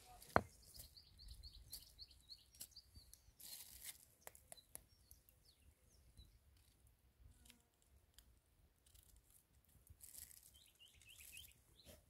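A small bird singing faintly: a quick run of short, high chirping notes for about two seconds starting about a second in, and again near the end. A single sharp click just under half a second in, with scattered light crackling throughout.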